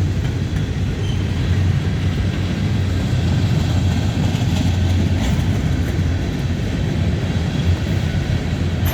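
CSX manifest freight train rolling past slowly as it slows down, its cars and wheels making a steady low rumble on the track.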